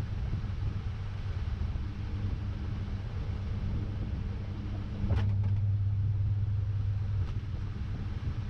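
Samsung top-load washing machine running, heard from inside the drum: a steady low motor hum. About five seconds in a sharp click comes and the hum grows louder for about two seconds, then a second, fainter click.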